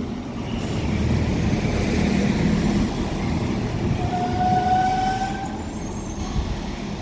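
Transport for Wales Class 197 diesel multiple unit arriving at a platform, with a steady low rumble of engine and wheels. A single steady high note sounds for just over a second about four seconds in, and the rumble eases near the end.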